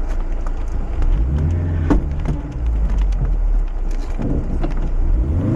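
Lifted Mazda MX-5's four-cylinder engine running at low revs over a low rumble, its pitch rising briefly about a second and a half in and again climbing near the end. Scattered clicks and knocks sound throughout.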